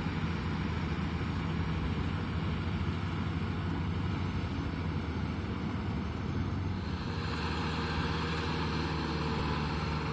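Kubota M6040SU tractor's diesel engine running steadily with a low hum. About seven seconds in, a broader, noisier sound joins it higher up.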